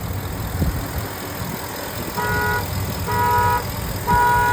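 Ford F-250 engine idling with a low rumble, then three short vehicle horn honks about a second apart in the second half, the last the loudest.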